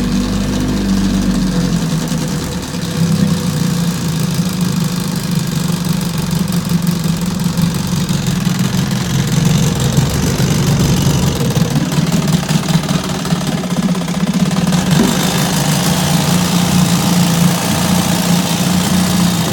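1968 Evinrude Sportwin 9.5 hp two-cylinder two-stroke outboard motor running steadily in a test tank. It gets a little louder and brighter from about eight seconds in.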